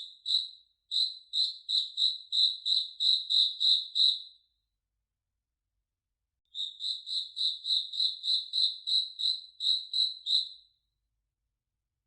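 One cricket chirping, a clear high-pitched chirp repeated about three times a second. It sings in two runs of about four seconds each, with a pause of about two seconds between them, and stops again about a second before the end.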